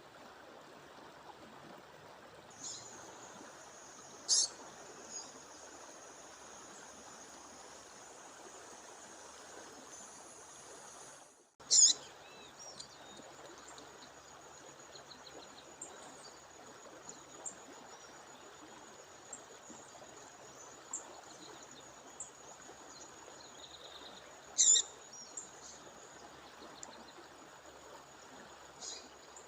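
Steady rushing of a waterfall stream with a bird calling over it: short, sharp, high-pitched calls, the loudest about four, twelve and twenty-five seconds in, with many small chirps between and a thin, steady high-pitched tone above the water.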